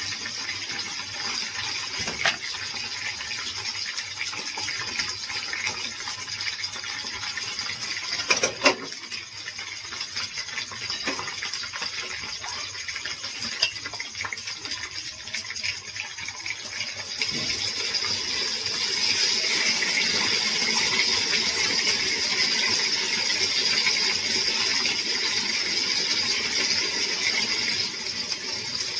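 Chicken frying in a pan, a steady sizzle that grows louder about two-thirds of the way through, with a few sharp clinks like a utensil against the pan.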